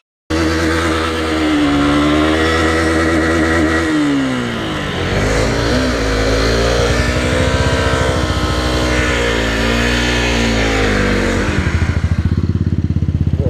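Yamaha R15 V2's single-cylinder engine under way on the road, its note rising and falling with the throttle and gear changes. About eleven seconds in it drops to a lower, pulsing beat as the bike slows.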